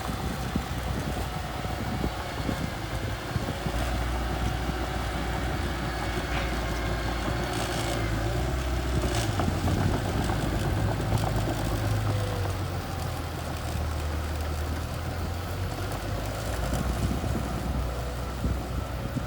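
Small bulldozer's diesel engine running steadily under load, a deep rumble that swells and eases, with a few sharp clanks.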